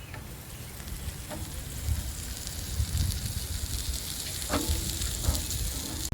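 Steady sizzling hiss with a few faint crackles from a campfire with a cast iron camp cooker set over its coals, over a low rumble.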